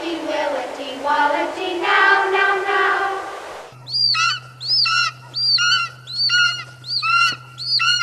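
Melodic vocal sound, then an abrupt cut to a bird call: about seven clear whistled chirps, each rising then falling, repeated roughly every two-thirds of a second over a steady low hum.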